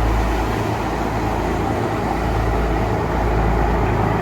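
Fishing charter boat's engines running steadily as it passes through the inlet: a continuous low rumble mixed with water noise.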